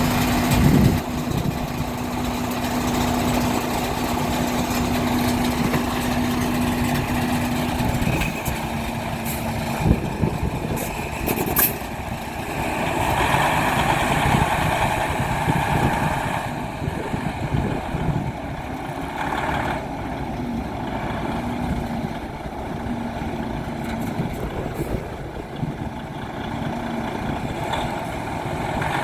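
Diesel engine of a 2018 Western Star 5700XE sleeper semi truck idling steadily, with a couple of sharp clicks about ten seconds in.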